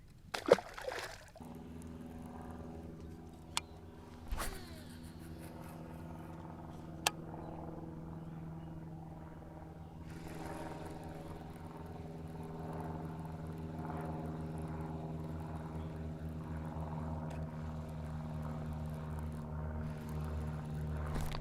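Steady hum of a small electric trolling motor running at constant speed, starting about a second in and growing a little louder near the end, with a few sharp clicks and knocks in the first several seconds.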